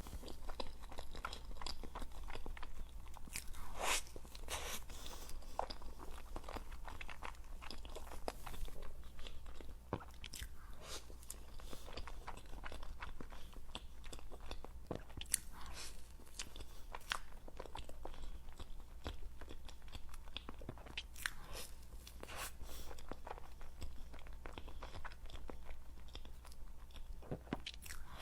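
Close-miked eating sounds: biting and chewing a blueberry Oreo towel-roll cake, with many short, sharp crunches and clicks at an irregular pace.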